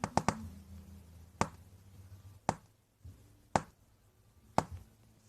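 A quick run of sharp taps, then single sharp taps about once a second, over a faint low hum.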